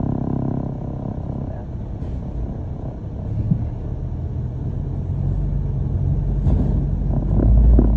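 London double-decker bus engine and road rumble heard from inside the bus, a steady low rumble that grows louder over the last couple of seconds.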